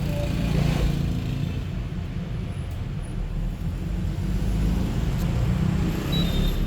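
Road traffic: a steady low rumble of passing vehicle engines, with a louder vehicle going past about a second in and another late on.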